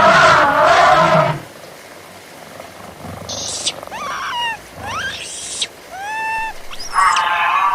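A string of wild animal calls: a loud blaring call for the first second and a half, then several short calls that sweep up and down in pitch, and another loud call that starts near the end.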